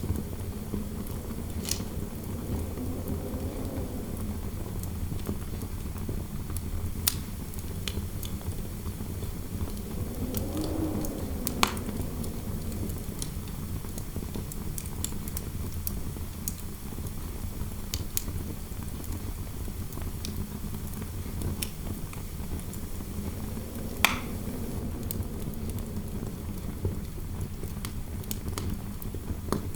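Fireplace crackling with scattered sharp pops over a steady low indoor wind noise. A hollow wind howl swells and fades three times.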